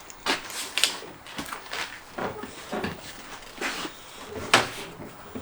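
Irregular clicks and knocks of hand tools and parts being handled during engine removal, with one sharper knock about four and a half seconds in.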